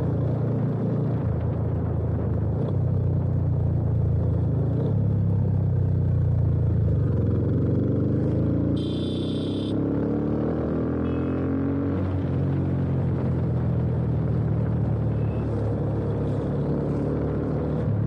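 A Yamaha FZ25's single-cylinder engine, fitted with an aftermarket slip-on exhaust, running steadily under way, with wind and road noise over it. About nine seconds in, a brief high-pitched tone sounds for under a second while the engine pitch shifts.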